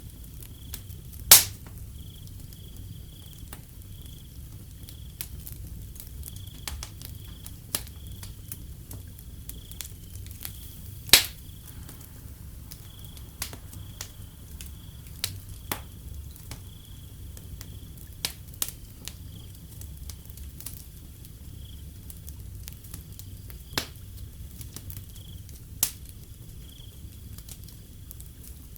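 A wood fire crackling with scattered sharp pops, two much louder snaps about a second in and about eleven seconds in, over a low steady rumble. A cricket chirps in steady, evenly repeated pulses.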